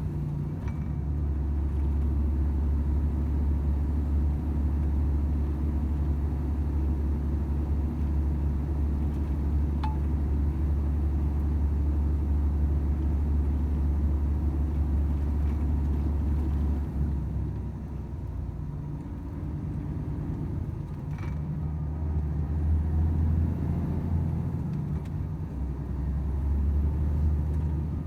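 Volvo FH 500 truck's 13-litre six-cylinder diesel running on the road: a steady low drone over road rumble. The drone drops away about seventeen seconds in, then builds back up some five seconds later.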